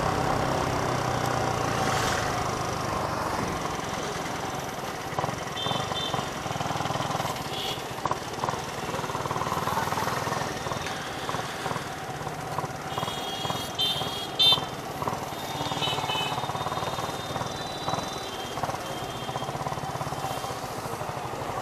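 Motorcycle engine running steadily, with scattered clicks and a few short high-pitched tones around the middle.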